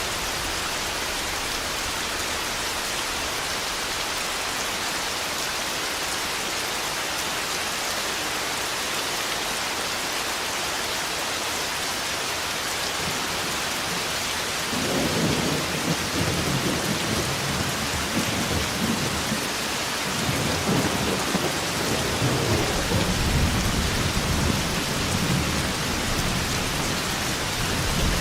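Heavy rain falling steadily, with thunder rumbling in about halfway through and rolling on, swelling again over the last several seconds.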